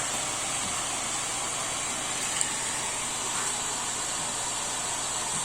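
Hair dryer running steadily, a constant blowing hiss as its airstream holds up a floating ping-pong ball. A small click about two and a half seconds in.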